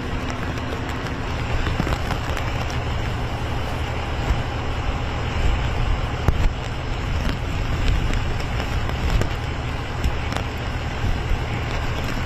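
Heavy rain falling steadily, with wind buffeting the microphone in a low rumble and a few brief louder moments.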